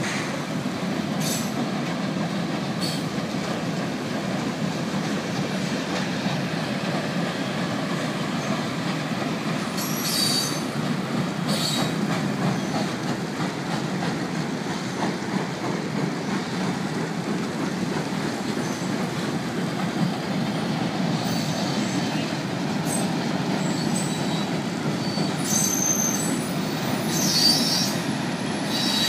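Long freight train of refrigerated boxcars rolling steadily across a trestle bridge: a continuous rumble of wheels on rail, with a few brief high squeals from the wheels about a third of the way in and again near the end.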